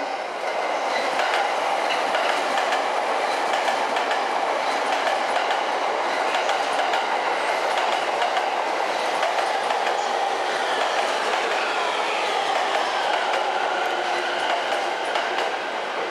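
E231- and E233-series electric commuter train rolling past the platform, with steady running noise and wheels clicking over the rail joints. About ten seconds in, a whine falls in pitch as the train slows.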